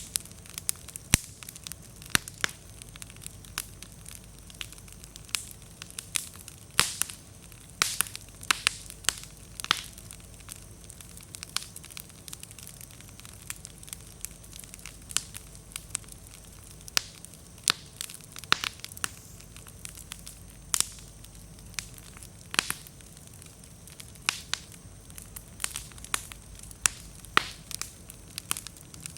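Wood bonfire crackling, with frequent sharp, irregular pops as slightly damp firewood bursts and throws sparks.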